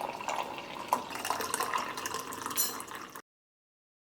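Water running and splashing with small drips, which cuts off abruptly about three seconds in.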